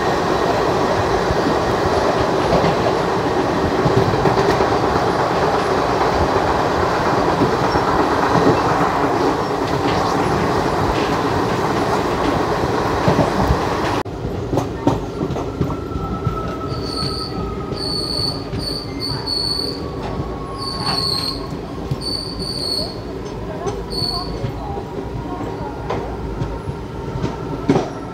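Passenger train heard from an open coach doorway at speed: a loud, steady rush of wheel-and-rail rolling noise and wind. About halfway through the sound drops abruptly to a quieter running noise. There, a run of short high-pitched squeals comes as the train slows into a station.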